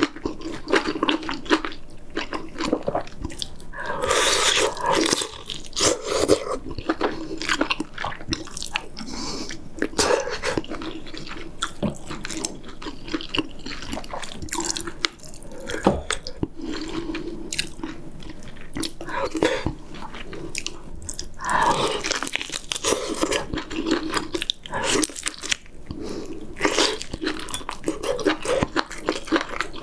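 Close-miked chewing and biting: a person eating braised pork back ribs and kimchi stew, with wet smacking and irregular crunchy bites as meat is pulled off the bone.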